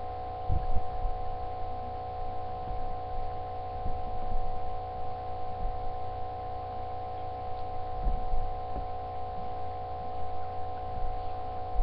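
A steady electrical hum made of several held tones, unchanging throughout, with a low rumble beneath and a few faint soft knocks.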